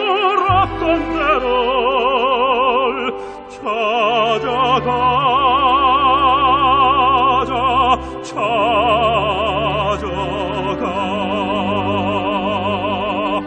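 Classical, operatic singing with a wide, even vibrato, holding long notes over orchestral accompaniment. There are two short breaks between phrases, a few seconds apart.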